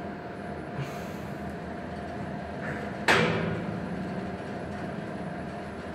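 ThyssenKrupp lift doors banging shut with one sharp, loud impact about three seconds in, ringing off briefly over a steady low hum.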